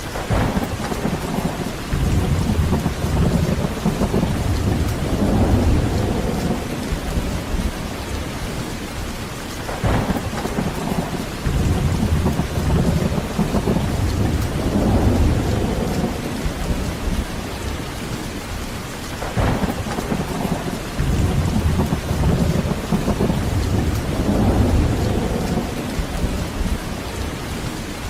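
Steady heavy rain with rolling thunder: three long low rumbles of several seconds each, each one set off by a brief sharp crack.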